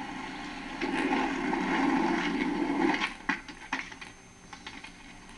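Skateboard: about two seconds of loud rumbling from the wheels or trucks on a surface, then a few sharp clacks of the board.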